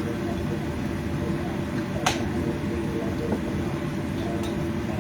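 Steady kitchen hum and hiss from the stove area, with one sharp click about two seconds in and a fainter one later.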